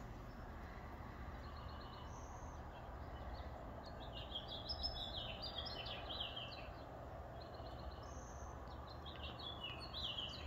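Small birds singing in short, repeated chirping phrases, busiest about halfway through and again near the end, over a steady low background noise.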